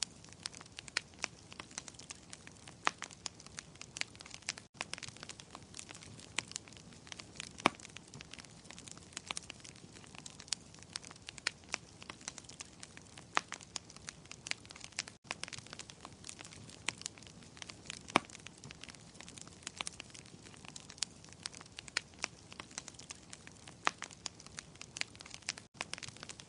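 Wood fire crackling: a steady soft hiss with frequent irregular sharp pops and snaps from burning logs.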